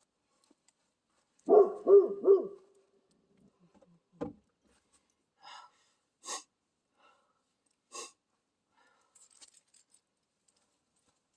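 Three quick, loud hoots like an owl's, about a second and a half in. These are followed by a few sharp pops and crackles from the campfire.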